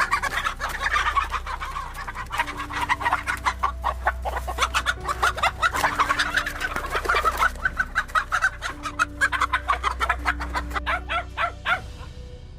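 Chickens clucking in a rapid, busy run that stops about a second before the end, over a low steady hum.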